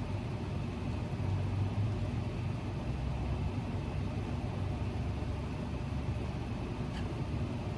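A steady low hum, even in level throughout, with no distinct events.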